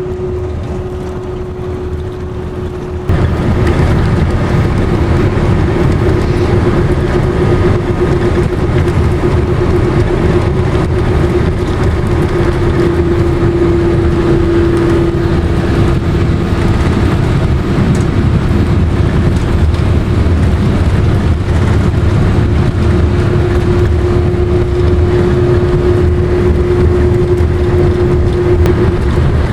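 Steady road noise of a car driving on the highway: a low rumble with a held hum, which steps up in loudness about three seconds in.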